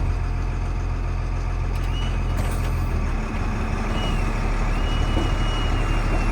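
FMTV military truck's diesel engine running steadily at a low, heavy rumble while the truck pulls on a tree. A faint high whine comes and goes from about two seconds in.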